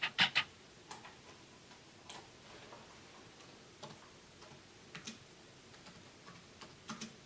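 Clicks from working a computer's mouse and keyboard: a quick run of three or four sharp clicks at the start, then single faint clicks at irregular gaps of about a second.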